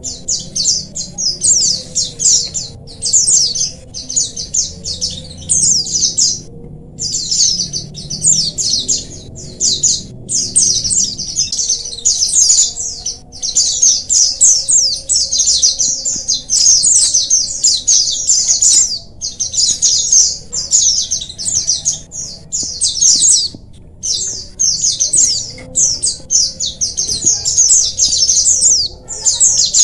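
A colony of white-eyes (pleci) twittering together: many birds giving rapid, high-pitched chirps and trills over one another, with only brief pauses.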